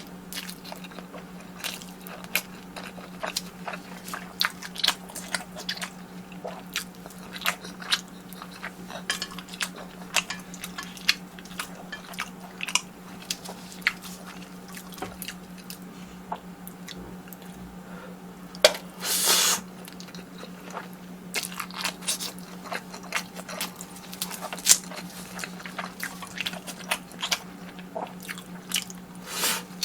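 A person eating close to the microphone: crisp bites crunching and chewing, with many short mouth clicks and one longer, louder crunch about two-thirds of the way through.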